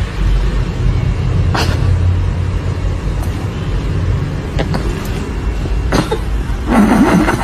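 Loud, steady low rumble with a few sharp clicks, like a running vehicle or wind on the microphone. Near the end comes a short, wavering, voice-like sound.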